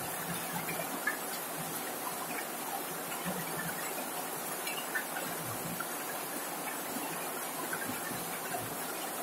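Steady rain falling on a corrugated zinc roof: an even hiss with many small drop ticks scattered through it.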